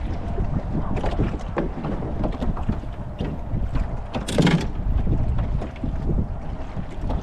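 Wind buffeting the microphone on a small boat rolling in choppy water, with scattered short knocks and one louder sudden noise about four seconds in.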